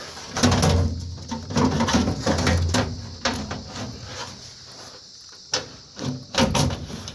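Sheet-metal furnace air box being shifted and fumbled by hand while its mounting clips are hunted for: irregular knocks, clicks and scrapes of metal panels, with a low rumble in the first few seconds.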